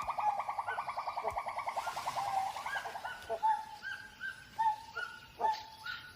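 Gibbon calling in a territorial vocal display: a fast run of hooting notes, about eight a second, that slows after about three seconds into separate, spaced whoops with short rising notes between them.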